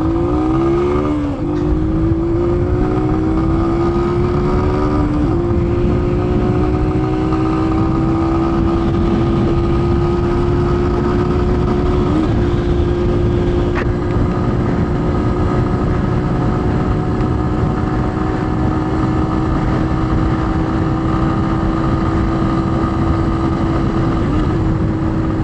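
Keeway Cafe Racer 152's 150cc single-cylinder engine at full throttle, its pitch climbing and dropping at two upshifts in the first five seconds, then holding a steady high-revving tone at speed. Heavy wind buffeting on the microphone throughout.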